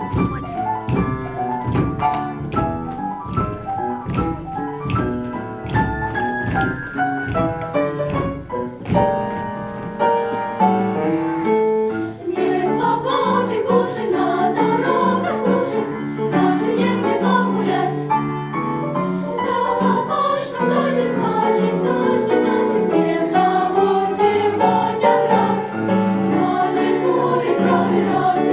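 Piano playing a boogie-woogie with a steady, evenly struck bass beat, then a choir comes in about ten seconds in and sings over the piano accompaniment.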